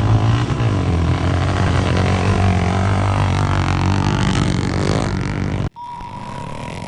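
Motocross bike engines running loud and revving, with a deep, droning note. Near the end the sound cuts off abruptly to a quieter, steady high drone.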